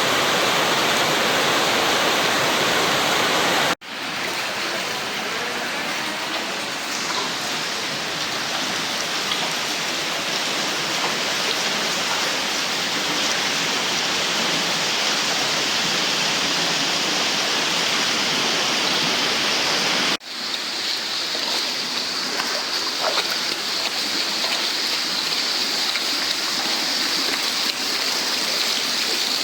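Torrential storm rain pouring down hard, with water rushing and running off, a dense steady hiss. It breaks off for an instant twice, about 4 and 20 seconds in.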